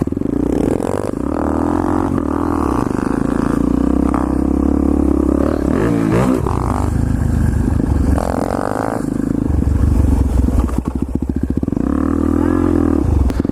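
Motorcycle engine running while riding, its pitch rising and falling with throttle changes, with a quick up-and-down swing about halfway through.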